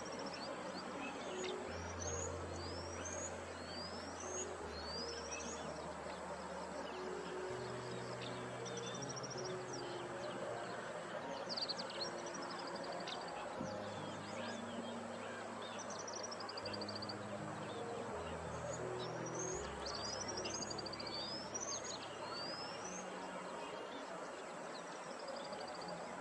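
Birds chirping, with many short rising calls and a few trills, over soft ambient background music of slow, held low notes.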